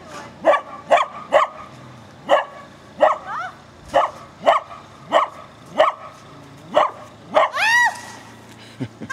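A dog barking over and over, about a dozen short sharp barks, with a longer, higher bark that rises and falls near the end. It is barking in excitement at a person struggling in deep snow.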